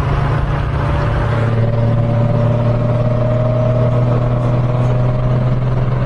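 Mazda Miata's four-cylinder engine droning at steady high revs at highway speed, its pitch creeping up slightly, over road and wind noise.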